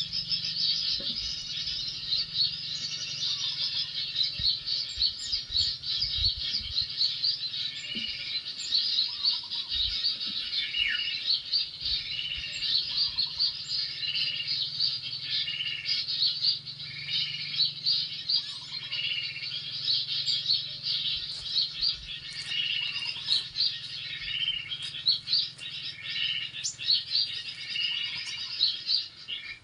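Small songbirds chirping rapidly and continuously: a dense high twittering with a lower call that repeats every second or two.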